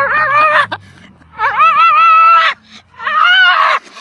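An animal giving three long, wavering, high-pitched cries, each bending up and down in pitch.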